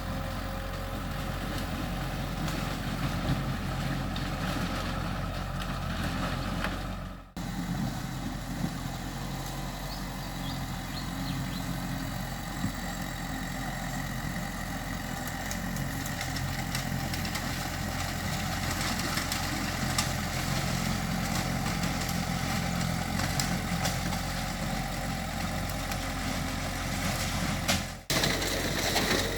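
Diesel engines of heavy earthmoving machinery, a bulldozer and dump trucks, running steadily with scattered clanks. The sound cuts out sharply twice, about seven seconds in and near the end.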